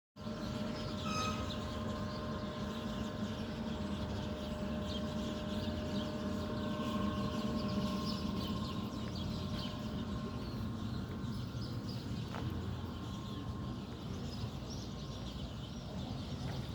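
Many small birds chirping and twittering in short, scattered calls over a steady low hum.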